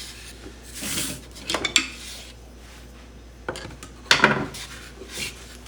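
Metal hand tools clinking and scraping against each other and the wood as they are slid into the slots of a wooden toolbox, in a few separate bursts, the loudest about four seconds in.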